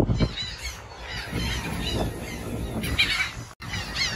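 Many laughing gulls calling over their nesting colony, a dense chorus of repeated, overlapping calls, with a brief dropout near the end.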